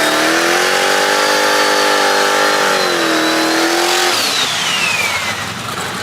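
A high-performance car engine is held at high revs, its note dipping slightly about three seconds in. About four seconds in the revs drop off and a high whine falls steadily in pitch as the engine sound eases.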